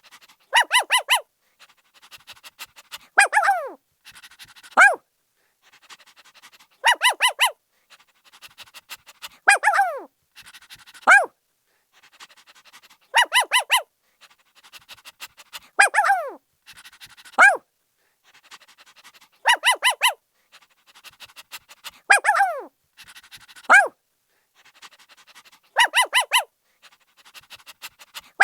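A puppy barking in high yips: quick runs of three or four yips alternate with single yelps that fall in pitch. The same sequence repeats about every six seconds.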